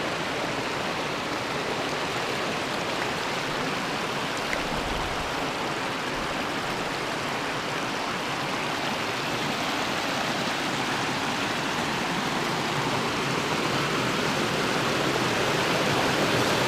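Mountain river water rushing and splashing over rocks, a steady rush that grows slightly louder near the end.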